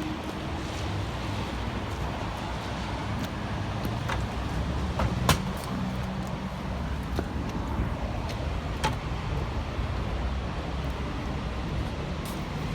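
Steady outdoor rumble and hiss, heaviest in the low end, with a few sharp clicks about 4, 5 and 9 seconds in.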